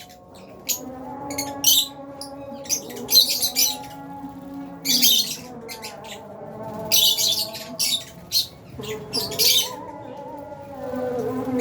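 A flock of lovebirds chirping and screeching in short, harsh bursts, one following another every second or so.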